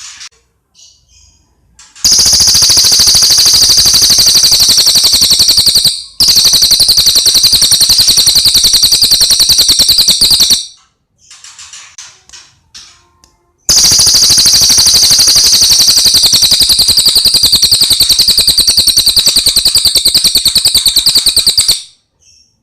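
Cililin bird singing: two loud, rapid high trills of about eight seconds each, a little over a second in and again past the middle, with soft short chirps before and between them.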